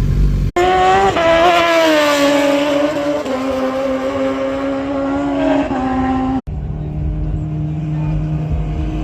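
Superbike engines heard across hard cuts between clips. The middle stretch is an engine held at high revs, a loud high note that sags slightly and then holds steady, followed after a cut near the end by a lower, steadier engine rumble.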